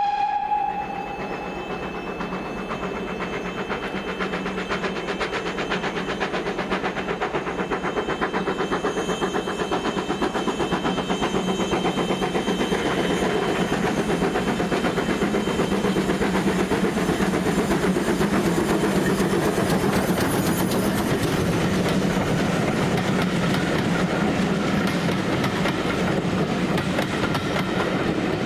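Steam train hauled by locomotive 9351 running past. A whistle blast cuts off in the first second, then there is a loud, steady, fast rattle of wheels and rods that builds a little and holds.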